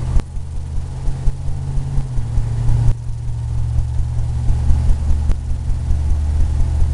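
A steady low mechanical hum, like a motor running, with one of its tones dropping slightly in pitch about two to three seconds in.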